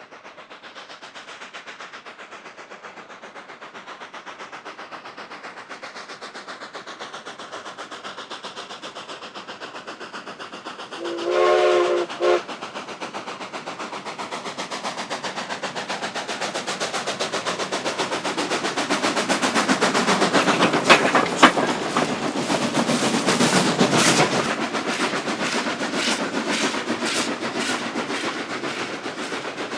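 Two K-36 narrow-gauge steam locomotives double-heading a heavy train, their exhaust chuffing in fast, overlapping beats that grow louder as they approach and pass. A chime whistle sounds for about a second, about eleven seconds in.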